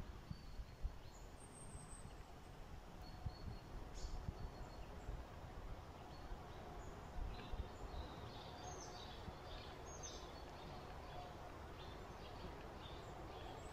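Faint forest ambience: scattered bird chirps, most of them about seven to ten seconds in, over a low, steady rumble of background noise.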